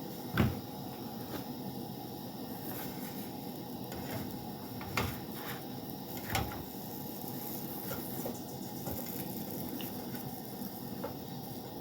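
Steady hiss of a gas burner under a browning tortilla, with a few short knocks of cookware being handled, the loudest about half a second in.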